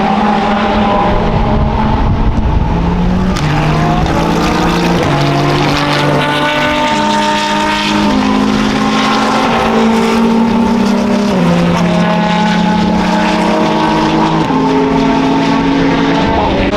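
Race car engines running on the circuit: several engine notes hold steady and shift up and down in pitch every second or two, with a car's note gliding past near the end.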